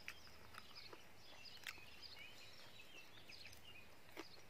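Near silence with faint birds twittering in short chirps, mostly in the middle, and a few soft clicks scattered through.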